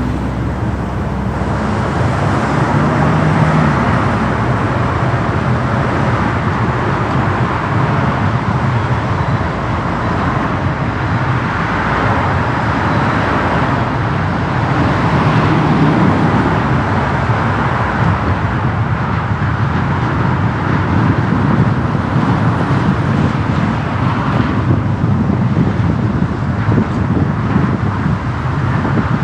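Car driving on city streets: steady road and traffic noise with no sudden events.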